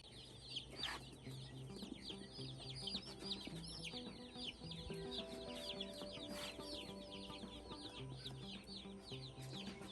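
A boxful of young Cornish Cross broiler chicks peeping nonstop, many short high chirps overlapping, with background music underneath.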